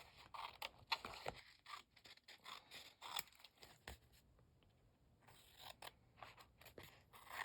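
Scissors cutting paper: a run of faint, irregular snips, with a short pause about four seconds in before the cutting resumes.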